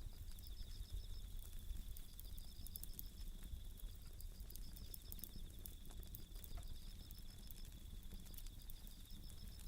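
Bell crickets (suzumushi) singing in repeated high, pulsing trills over a wood fire that crackles with scattered small pops.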